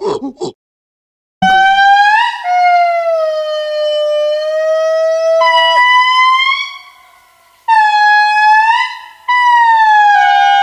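An animal howling: three long, drawn-out howls. The first lasts about five seconds and steps up in pitch partway through; the two shorter ones follow after brief gaps.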